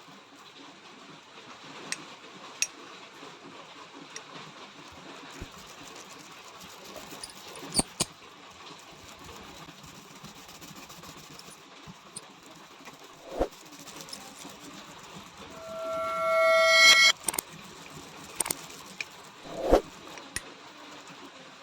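Scattered sharp clicks and knocks over a low hiss, with a short pitched metallic squeal, rising in level, about sixteen seconds in.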